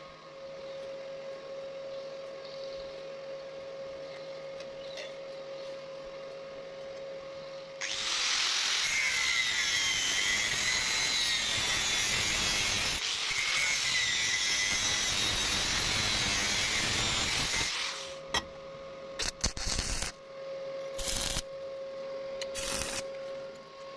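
Metal pipe being cut for about ten seconds, a loud harsh grinding noise with a wavering whine, starting about eight seconds in and stopping abruptly. Before it a steady hum, and after it several sharp knocks.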